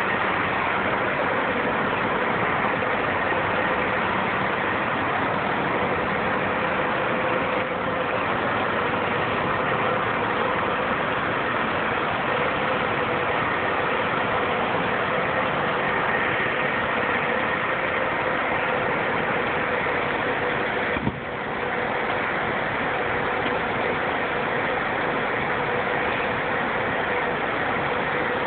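A steady mechanical drone with a faint hum, unchanging throughout, broken once by a brief click about 21 seconds in.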